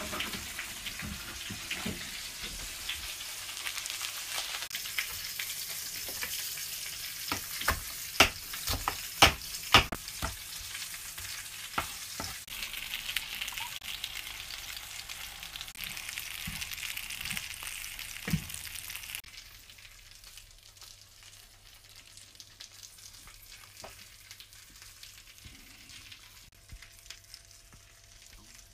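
Food sizzling as it fries in a hot pan, with a few sharp knocks and clinks of a utensil against the cookware around the middle. The sizzling stops suddenly about two-thirds of the way in, leaving only faint small clicks and taps.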